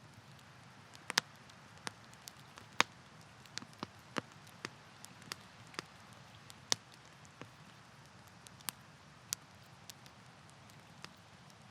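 Wood campfire crackling: irregular sharp pops and snaps at uneven intervals, a few of them louder, over a soft steady low burning hiss.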